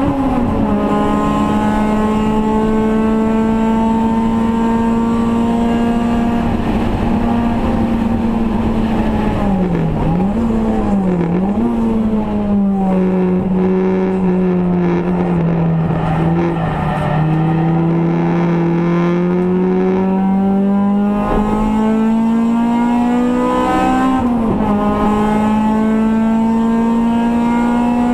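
Race car engine heard from inside the stripped cabin, held at high revs. About ten seconds in the note dips twice briefly, then sinks slowly for several seconds as the car slows for a corner, climbs steadily back to high revs, dips briefly once more near the end and holds.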